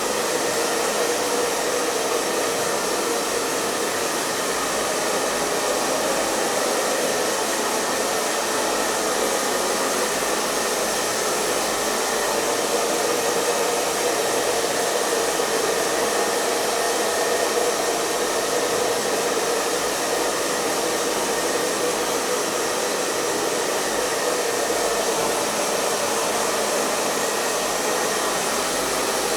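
Hair dryer running steadily: a continuous, even rush of air with a steady hum in the middle range that holds without change.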